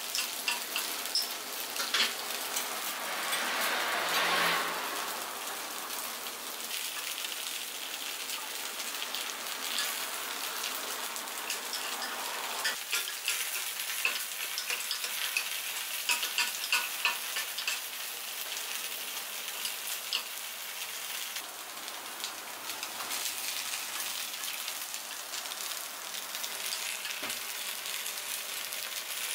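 Takoyaki batter sizzling in oil in an iron takoyaki pan, with scattered light clicks as metal picks turn the balls against the pan. The sizzle swells briefly about four seconds in.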